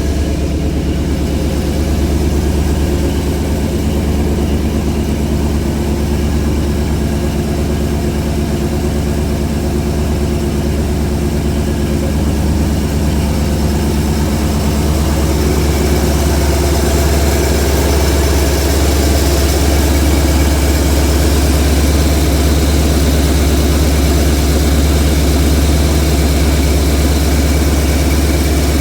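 Ford 351 Windsor V8 in a 1977 Mustang Cobra II idling steadily while it warms up before an oil change, getting slightly louder about halfway through.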